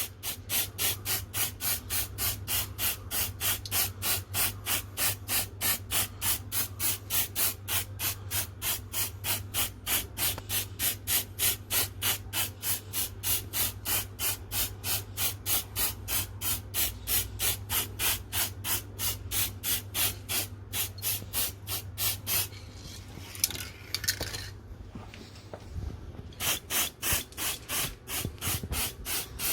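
Aerosol can of silver spray paint being worked in quick, regular pulses, about three a second, with a pause of a few seconds near the end before the pulses start again.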